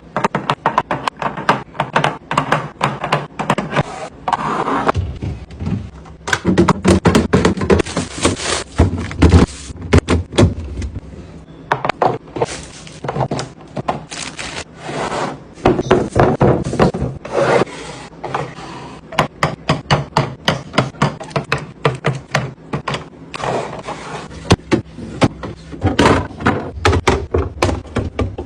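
Containers and food items being set down and slid into place on refrigerator shelves and in drawers: a busy run of knocks and taps mixed with rubbing and scraping.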